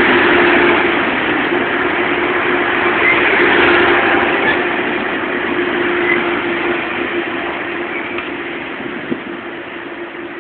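Diesel train running along the tracks with a steady engine drone and track noise, slowly fading as it pulls away.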